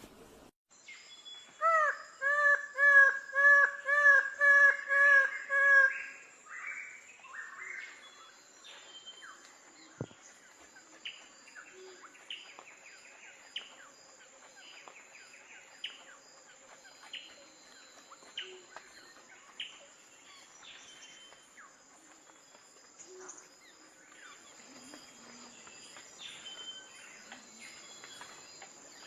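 A bird of paradise calling: a rapid series of about nine loud, repeated pitched notes, roughly two a second. After that come fainter short calls scattered through the rest, over a steady high insect buzz.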